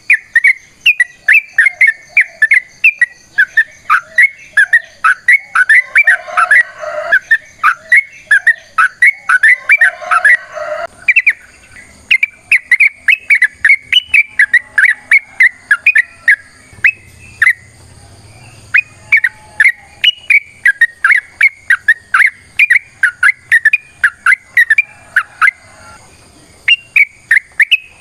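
Yellow-vented bulbul (trucuk) singing a long, rapid chattering series of short whistled notes, about three to four a second, with a few brief pauses. A second, lower call overlaps for a few seconds about a quarter of the way in.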